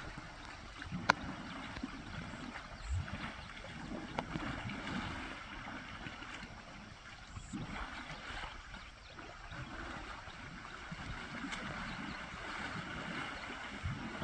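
Water splashing and sloshing as wild elephants bathe in a pond, with low thumps throughout and a sharp click about a second in.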